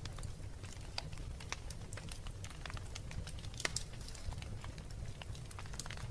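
Wood fire crackling: irregular sharp pops and snaps over a steady low rumble of burning flames, with one louder pop about three and a half seconds in.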